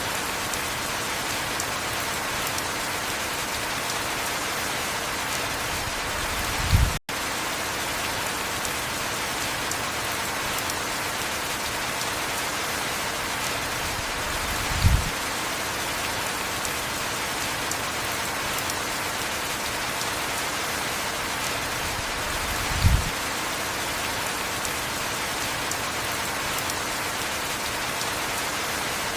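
Heavy rain falling steadily, an even hiss, with a short low thump about every eight seconds and one brief dropout about seven seconds in.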